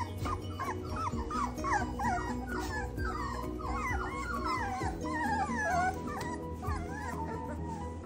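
Four-week-old puppies whining and squeaking, many short high cries rising and falling in quick, overlapping succession, over background music.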